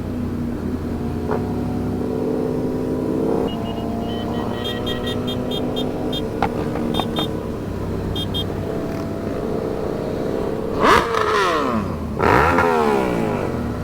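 Motorcycle engine running steadily at low revs, with a run of short high beeps in the middle. Near the end, two loud passes by other engines, their pitch falling steeply as they go by.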